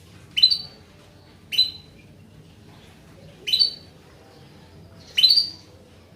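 Female domestic canary giving four short single chirps, spaced about one to two seconds apart. These are the female calls used to prompt a male canary into song.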